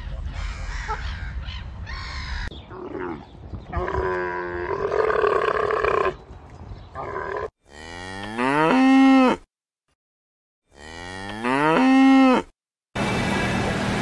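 Domestic white geese honking in a run of short calls, then two long cattle moos about three seconds apart, each rising in pitch at the start and then held. A steady rushing noise starts near the end.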